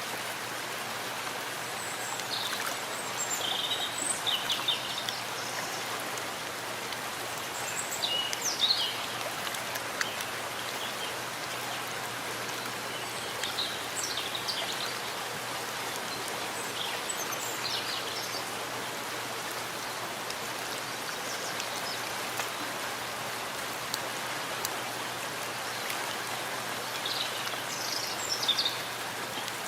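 Steady rain falling in a forest, with a bird chirping in short bursts several times.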